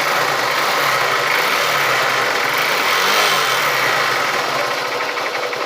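Honda Titan 150's single-cylinder four-stroke engine running at idle, freshly rebuilt with new piston, cam chain and guide and adjusted rockers. It swells slightly about three seconds in.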